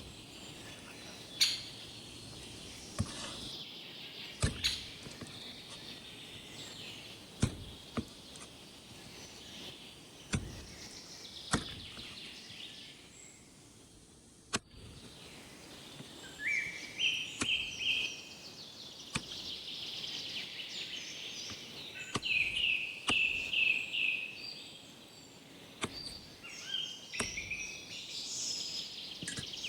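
Birds chirping in short clusters of calls, mostly in the second half. Earlier, single sharp knocks sound every one to three seconds.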